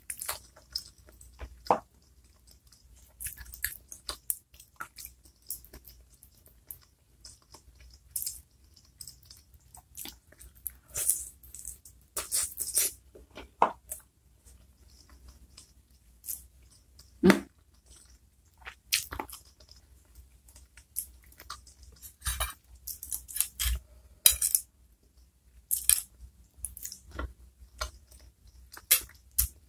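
Close-miked chewing, sucking and lip smacking while eating chicken feet in chili sauce, heard as irregular short wet clicks and smacks.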